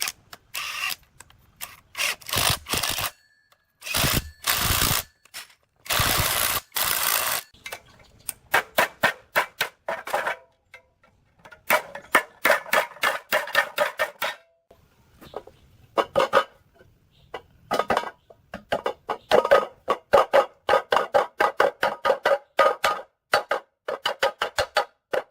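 Workshop metalwork: several short bursts of hissing noise, then long runs of rapid metallic tapping and clinking.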